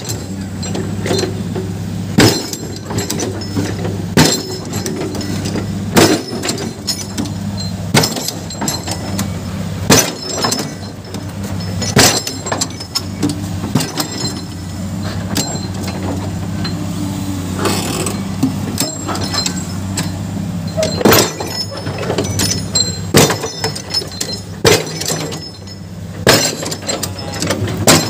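Excavator's diesel engine running steadily, with sharp knocks about every two seconds as the machine works rock and dirt.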